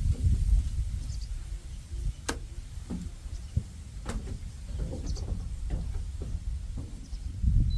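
Wind buffeting the microphone as a strong, uneven low rumble, with two sharp clicks about two and four seconds in.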